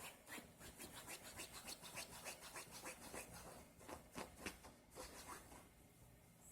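A dog digging, its claws scraping a surface in quick repeated strokes, several a second, easing off near the end.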